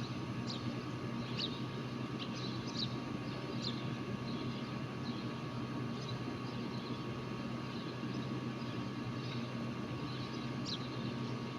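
Short, high bird chirps now and then, more of them in the first few seconds and again near the end, over a steady low rumble and hum.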